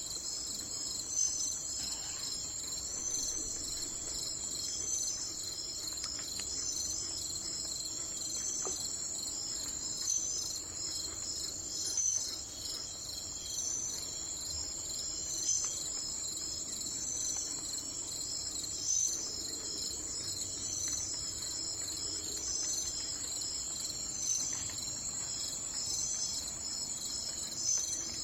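A steady, high-pitched chorus of insects trilling with rapid pulses, with a brighter chirp standing out about every two seconds.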